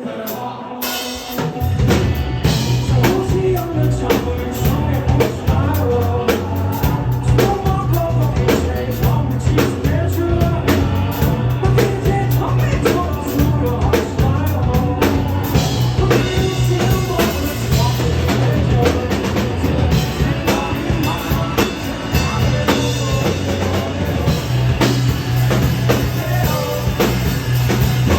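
Indie rock band playing live in a club: drum kit, bass and guitar. After a sparser first second or so, the full band with heavy bass and drums comes in about two seconds in and plays on steadily.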